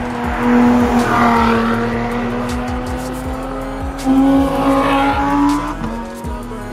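Sports car engines running hard at high revs on a hill-climb run. The steady engine note jumps up in pitch about four seconds in and drops back near the end, with a rush of noise swelling twice as cars pass.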